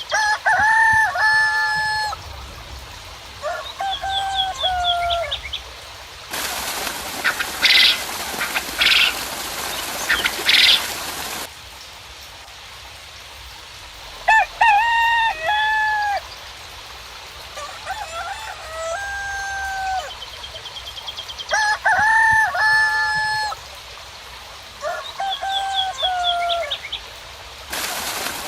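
Roosters crowing again and again, each crow lasting a second or two. In the middle, a stretch of steady hiss with sharp, higher calls in it cuts in abruptly and stops just as suddenly about five seconds later.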